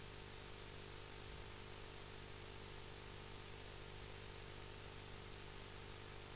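Steady faint hiss with a low electrical hum under it, unchanging throughout; no distinct calls or other events stand out.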